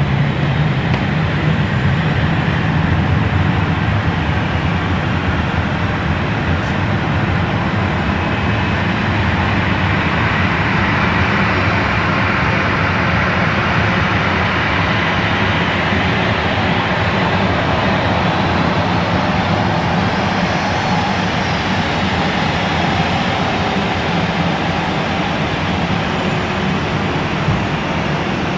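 Aircraft jet engines running, a loud steady noise with a low hum underneath that holds an even level throughout.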